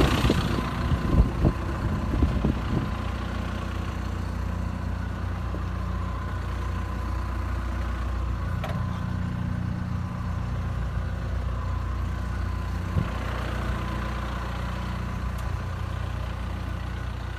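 Deere 160G LC excavator's diesel engine idling steadily, with a few knocks in the first three seconds.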